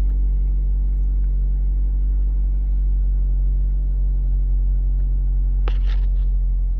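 2013 Mazda CX-5's engine idling steadily with a low hum, running again now that its blown C/U IG1 fuse has been replaced. A few quick clicks come near the end.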